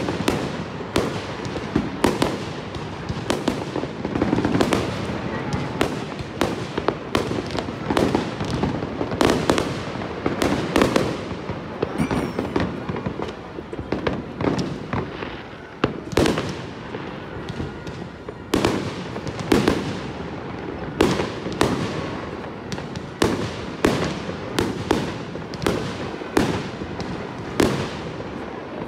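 Aerial fireworks shells bursting in a fast, uneven string of bangs, several a second at times, through the whole stretch.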